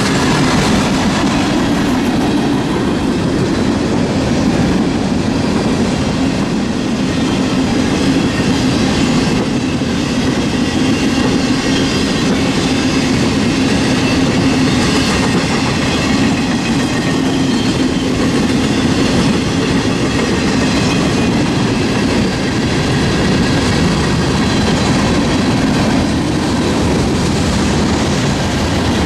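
Freight cars of a CSX mixed freight train rolling past: a steady rumble and clatter of steel wheels on the rails, with no break.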